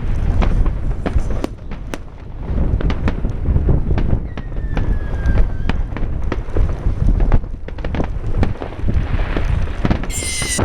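New Year's firecrackers and fireworks popping and cracking over and over, with wind rumbling on the microphone. A faint falling whistle sounds a little past four seconds, and a brief shrill tone near the end.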